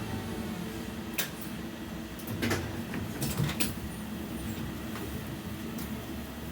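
Interior of a BKM 60102 tram standing at a stop: a steady hum from its electrical equipment, broken by a few sharp clicks and knocks in the first four seconds.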